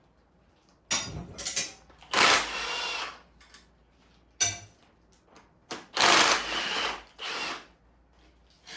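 A handheld power tool with a socket, run in about five short bursts, working bolts on the bottom end of a small-block Chrysler 360 Magnum engine.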